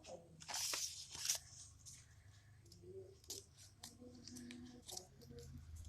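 Scissors cutting through paper, snipping out a paper mask's eye hole: a few short crisp cuts and rustles in the first second and a half, then quieter scattered snips and paper handling.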